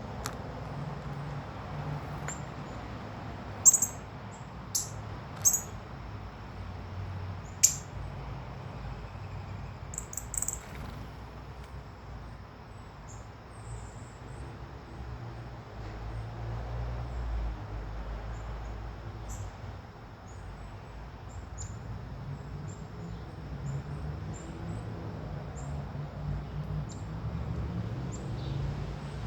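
Small songbirds chirping: a handful of short, sharp, high-pitched chirps, loudest in the first ten seconds, then fainter ones scattered through the rest, over a steady low rumble.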